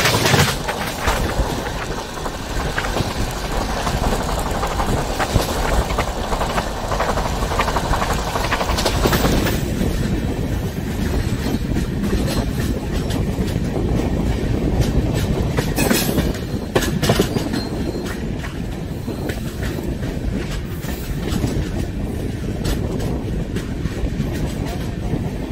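Express passenger train running at speed, heard from an open coach doorway: wheels clattering over rail joints with a steady rush of wind and track noise. The high hiss eases a little about ten seconds in.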